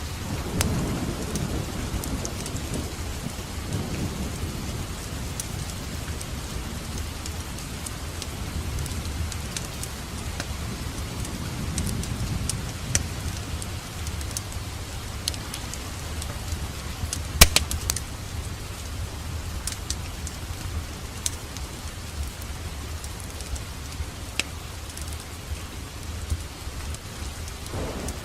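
Wood fire burning in a fireplace: a steady hiss and low rumble of flames with scattered sharp crackles and pops, a cluster of the loudest pops a little past halfway.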